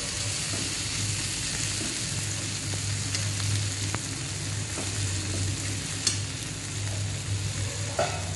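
Onions and tomato sizzling in an iron kadai over a low gas flame, stirred with a perforated metal ladle that clicks and scrapes against the pan a few times. A steady low hum runs underneath.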